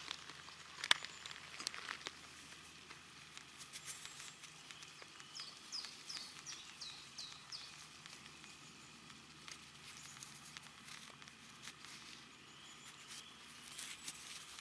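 Quiet forest ambience with scattered light clicks and rustles. Partway through, a small bird sings a quick run of about six falling notes.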